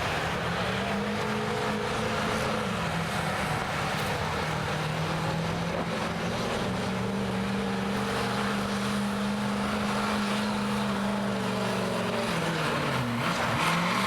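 Stock diesel pickup engine running hard under heavy load while pulling a weight sled, its pitch holding with small shifts. Near the end the revs drop sharply and climb back.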